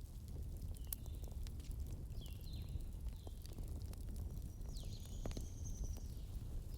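Burning logs crackling with scattered sharp pops over a low rumble, while birds chirp: a run of short falling chirps, and one longer high whistled note about five seconds in.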